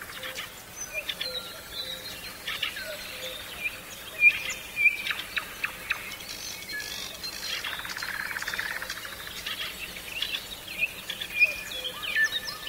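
Wild birds chirping and calling with short, repeated high chirps and whistles, over scattered sharp clicks. A brief buzzy rasp comes about eight seconds in.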